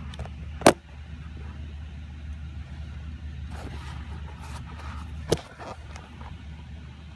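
Rain and outdoor noise heard through a closed window as a steady low rumble, with scattered faint ticks. A sharp, loud knock comes under a second in and a smaller one about five seconds in.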